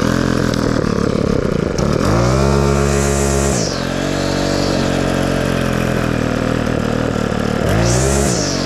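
Small gas weed whacker engine running, revved up twice by the throttle: once about two seconds in for a second and a half, and briefly near the end, falling back to a lower speed each time. It runs smoothly after its fuel lines and filter were replaced.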